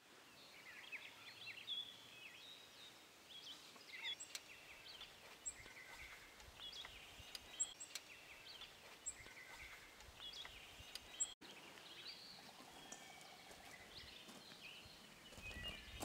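Faint birdsong in the open air: several birds chirping and trilling at intervals over a soft steady background hiss.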